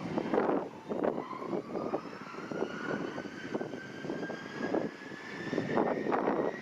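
Airliner engine whine rising slowly and steadily in pitch, as an engine spools up, with strong wind gusts buffeting the microphone.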